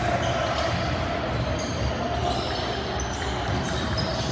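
Basketball game sounds in a gym: the ball bouncing on the court, with short high squeaks, over a steady din from the hall.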